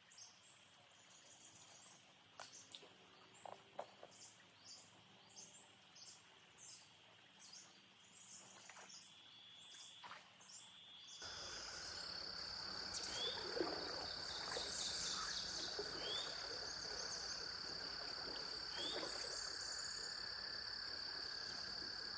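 A chorus of cicadas droning as a steady high whine, with soft pulsing for the first half. About halfway through it changes abruptly to a lower steady cicada drone over a louder background rush, with a short rising bird chirp every few seconds.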